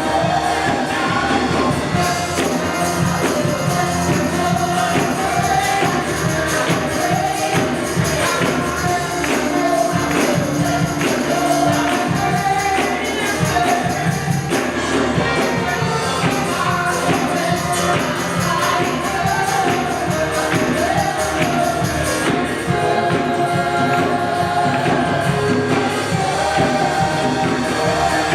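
Gospel worship music with group singing and a steadily shaken tambourine over a band.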